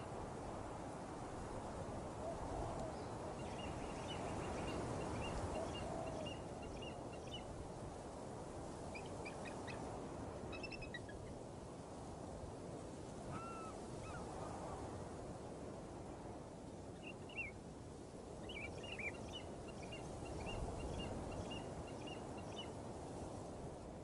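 Shallow stream rushing over rocks, with elephants wading through the water. Small birds chirp in quick runs of notes a few times over the top.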